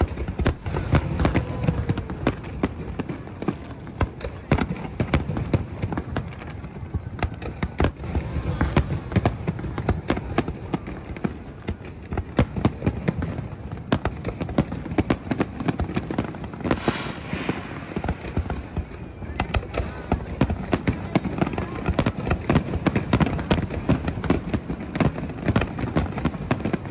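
Aerial fireworks display: a dense, continuous run of sharp bangs and crackles, many reports every second.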